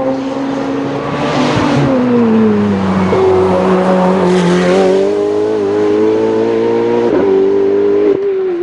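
Race car engine running hard at high revs. Its pitch drops about two seconds in, then climbs slowly again, with a couple of short breaks in the note near the end.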